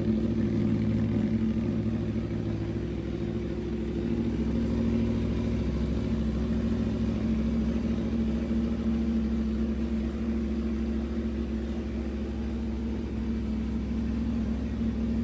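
Aprilia motorcycle engine idling steadily just after being started.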